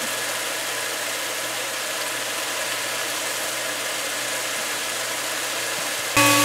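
Curry paste sizzling steadily as it fries in hot oil in a pot, the stage where its spices release their aromas and it darkens. Near the end the sound gets suddenly louder and a steady whine joins it.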